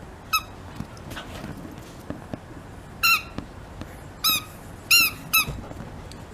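A squeaky dog toy squeezed five times: one short high squeak, then after a pause four more in quick succession.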